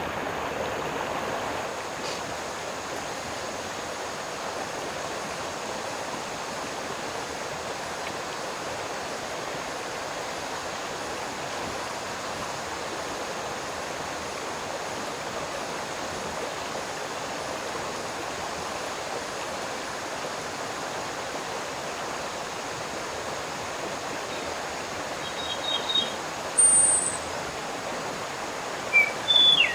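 Steady rushing of running water, like a stream. A few short high bird chirps come in near the end, ending in a quick run of chirps.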